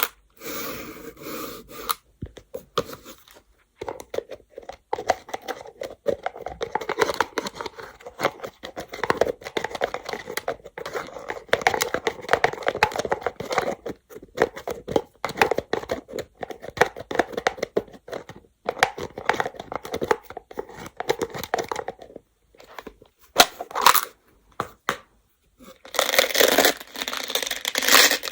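Go (baduk) stones clattering against each other in quick, dense runs of clicks, with a few short pauses and a louder, busier stretch near the end.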